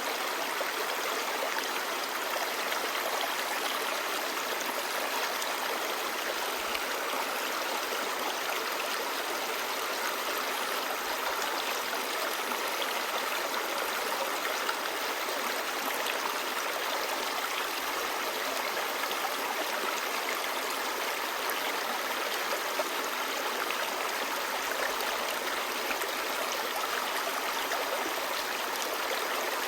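Clear stream babbling, a steady, unbroken rush of flowing water.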